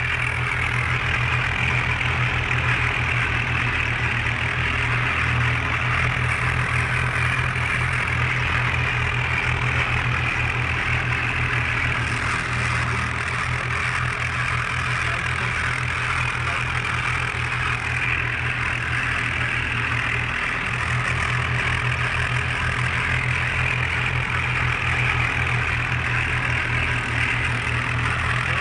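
A 5055 tractor's diesel engine running steadily, with an even low throbbing and a constant hiss above it.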